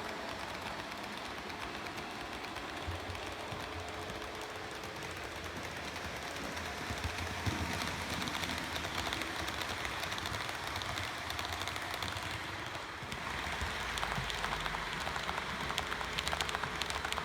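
Model train running on the layout's track: a steady motor hum and wheel noise, with rapid fine clicks of wheels over rail joints in the last few seconds.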